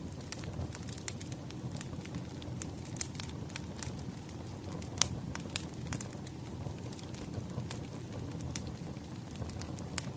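Wood fire crackling: irregular sharp pops and snaps over a low steady rustle, with one louder pop about halfway through.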